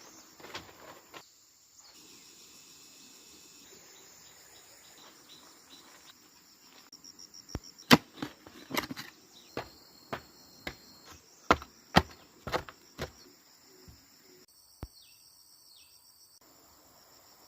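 Insects chirring steadily in the background, with a run of about a dozen sharp knocks in the middle, some of them loud.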